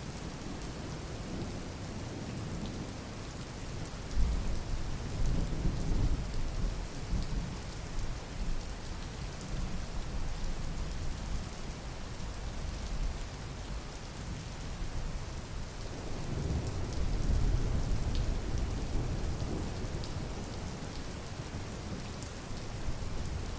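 Steady rain falling, with two long low rumbles of thunder: one about four seconds in and another about sixteen seconds in.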